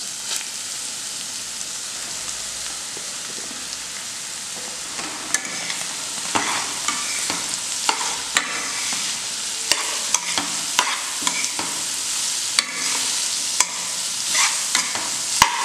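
Grated carrot frying in hot oil in a kadai, a steady sizzle. From about five seconds in, a steel spoon stirring it clicks and scrapes against the pan again and again.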